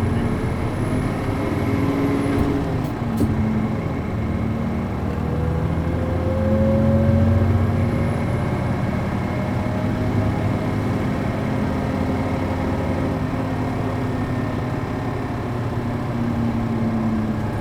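MD92TJ diesel engine of a city bus pulling away and accelerating, its pitch rising and dropping back a few times as the five-speed gearbox is shifted up. A short click comes about three seconds in.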